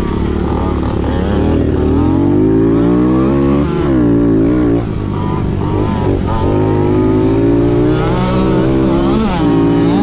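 Dirt bike engine revving on a motocross track. It climbs in pitch as the throttle is held, then drops sharply twice, about four seconds in and near the end.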